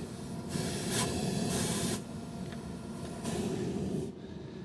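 Propane gas hissing out of a DeWalt 68,000 BTU propane heater, the hiss swelling and easing in surges and fading near the end. It is a gas leak from a faulty control dial that turns a full revolution instead of stopping.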